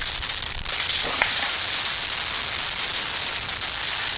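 Small camp-stove fires burning, a wood fire in a folding stove among them, with a steady hiss and crackle and one sharp pop a little over a second in.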